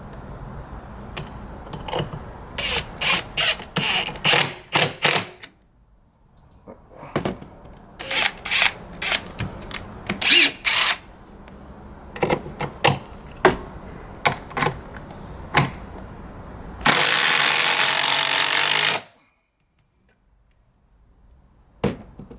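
Two cordless impact drivers, a Metabo HPT 18-volt triple hammer and a Milwaukee Fuel Gen 1, hammering 4-inch lag screws into wood in repeated bursts of rapid impacts. Near the end comes a loud, steady rushing noise lasting about two seconds that cuts off suddenly.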